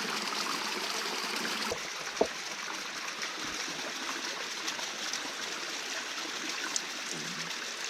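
Mountain spring water trickling steadily, with a single short knock about two seconds in.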